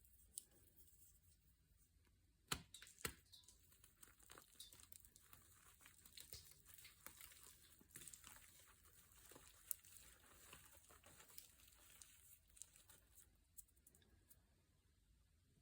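Faint crinkling and rustling with scattered small clicks, two sharper clicks about two and a half and three seconds in.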